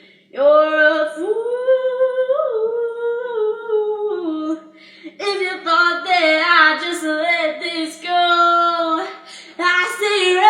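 A girl singing a song alone without accompaniment, with long held notes that slide up and down in pitch and a brief pause near the middle.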